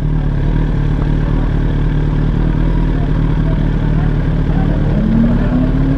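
Motorcycle engine running steadily at low revs, with a short rise in pitch near the end.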